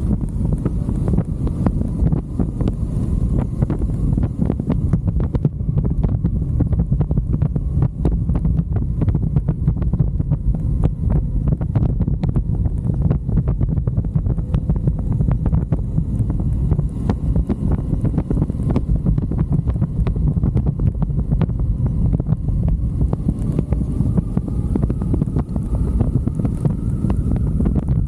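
Wind buffeting the microphone on a moving motorcycle, with the engine running underneath; the engine's pitch rises slowly in the latter part.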